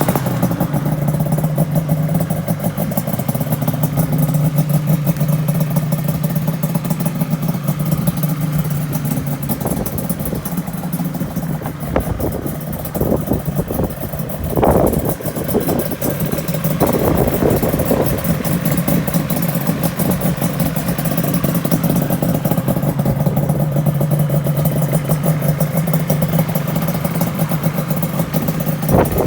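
Yamaha RZ350 two-stroke parallel-twin engine, in an RZ250 frame, idling steadily, with a few short throttle blips around the middle.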